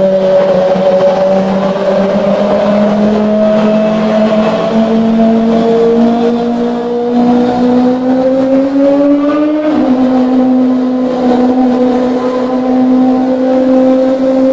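Kawasaki ZX-25R's 249 cc inline-four running at high revs through an aftermarket exhaust, its pitch climbing slowly under steady throttle. About ten seconds in the pitch drops suddenly, as at an upshift, then holds steady.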